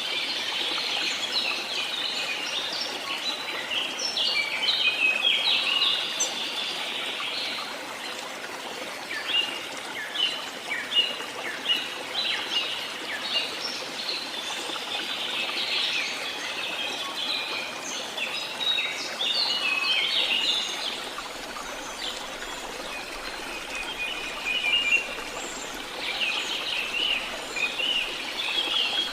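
Several songbirds chirping and trilling over a steady rush of running water.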